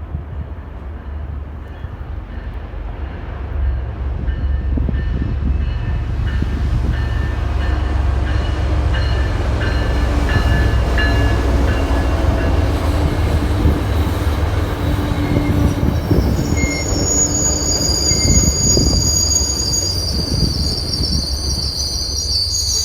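A train passes close by, its rolling rumble building about four seconds in and staying loud. From about sixteen seconds in, the wheels squeal with high, thin tones over the rumble.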